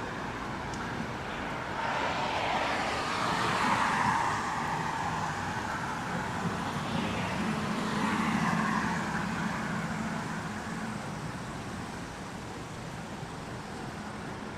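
City street traffic: two vehicles pass one after the other, the first swelling about two seconds in and the second, with a low engine hum, a few seconds later, over a steady background of road noise.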